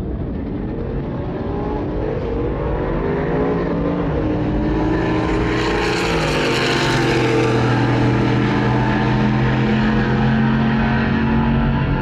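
Two trucks' engines accelerating hard in a drag race, their pitch climbing over the first several seconds, loudest around the middle, then holding a steady high drone.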